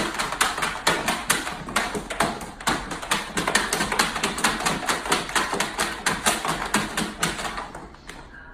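A quick, fairly even series of sharp taps, about five a second, growing fainter near the end.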